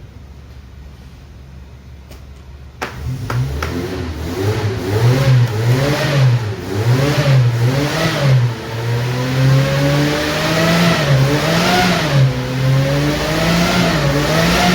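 An engine starts suddenly about three seconds in and is then revved up and down over and over, its pitch rising and falling about once a second.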